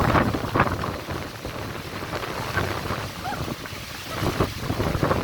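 Strong wind gusting, a steady rush broken by irregular thumps as it buffets the microphone.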